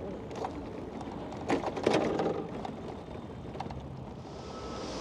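City street noise heard from a moving bicycle: steady traffic and road noise, with a brief louder sound about two seconds in.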